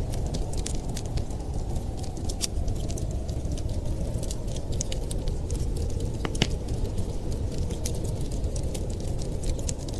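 Wood fire crackling: scattered sharp pops and snaps, one louder snap about six and a half seconds in, over a steady low rumble.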